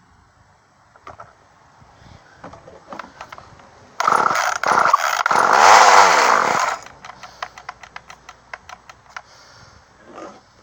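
Poulan Micro Pro Super XXV Deluxe two-stroke chainsaw being pull-started: three pulls of the starter cord about four seconds in, two short and a longer one, turn the engine over without it catching. The owner finds the engine is not sucking fuel through the fuel line. Light clicking and ticking from handling the saw before and after the pulls.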